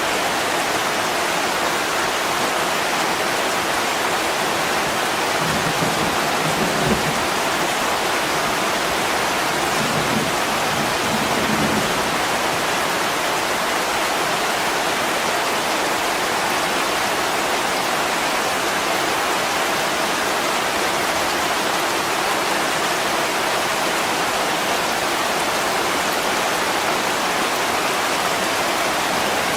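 Steady heavy rain pouring on a window, an even hiss without pause. Twice, a few seconds apart, a brief low rumble rises under it, the first ending in a small knock.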